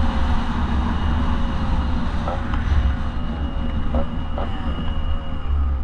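A motorcycle engine at speed under heavy wind rumble, its note sinking slowly as the revs ease off, with a few short chirps along the way.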